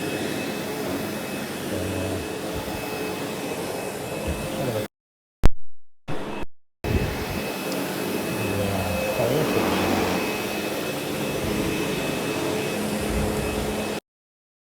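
Sebo X8 upright vacuum cleaner running steadily over carpet, a continuous motor hum with a thin high tone. The sound cuts out abruptly a few times around the middle, with one sharp click, and again just before the end.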